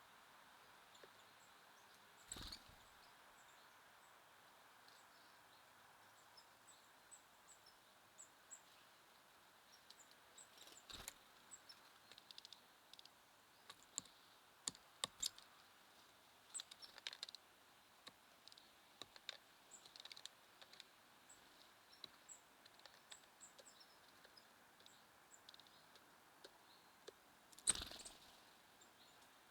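Faint, scattered chirps and short calls of small songbirds at a feeder over a quiet background, broken by a few sharp knocks, the loudest near the end.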